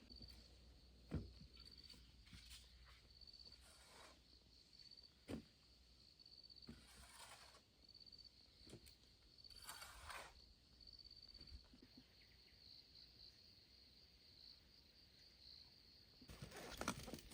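Faint rural ambience: an insect chirps high and evenly, about once a second, with a few scattered sharp knocks and brief rustles.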